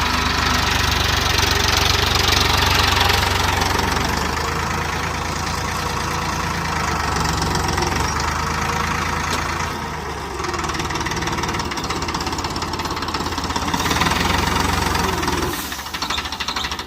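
Farmtrac 60 Super Maxx tractor's diesel engine running steadily under work; the sound drops and changes about a second before the end.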